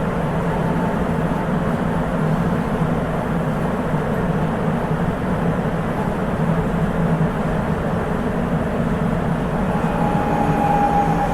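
Sapporo subway 8000 series rubber-tyred car running through the tunnel at speed, with a steady rumble. Near the end, a high whine from the Hitachi IGBT inverter sets in and slowly falls in pitch.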